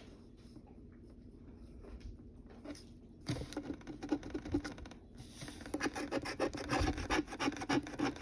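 Coin scratching the latex coating off a scratch-off lottery ticket, in quick rasping strokes. It is faint at first and gets steady and louder from about three seconds in.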